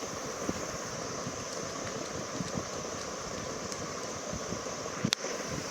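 A spoon stirring Milo powder and milk into a thick paste in a mixing bowl: soft, scattered scraping taps over a steady background hiss, with one sharp click about five seconds in.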